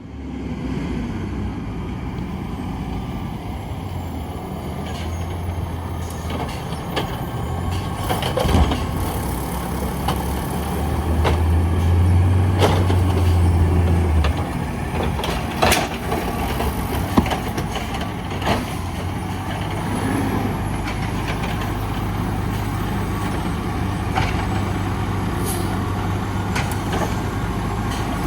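Garbage truck running, with a steady engine hum that grows heavier about five seconds in and drops back abruptly near the middle. Several sharp metallic clanks sound over it.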